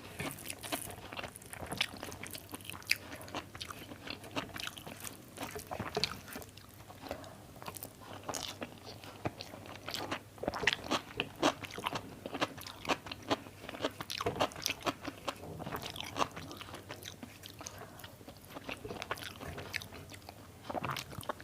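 Close-miked eating: a person biting and chewing food, with many short, irregular mouth clicks and smacks.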